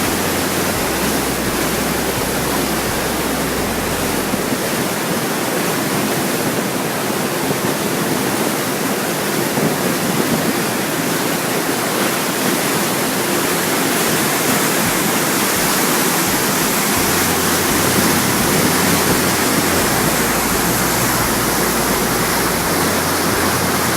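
Steady rush of fast-flowing river water, the Rimouski River running through its rapids, with an even hiss and no pauses.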